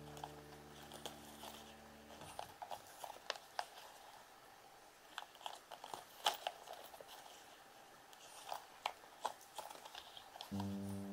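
Guitar music fades out about two seconds in. Then come scattered small, crisp clicks and crunches close to the microphone, about a dozen, irregular and with no steady rhythm. Music comes back near the end.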